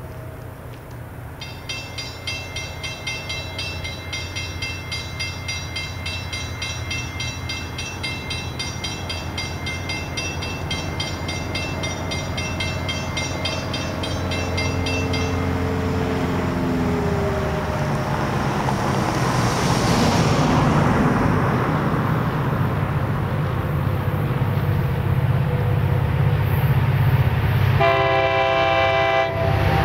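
A grade-crossing warning bell rings rapidly and evenly, then stops about halfway through, while the rumble of an approaching diesel locomotive grows steadily louder. Near the end the locomotive's air horn sounds a short blast.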